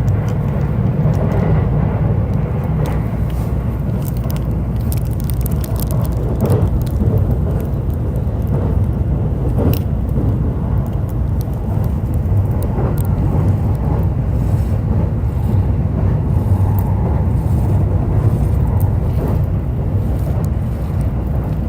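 E531 series electric train running at speed: a steady low rumble of wheels on rail, with a sharp click about ten seconds in.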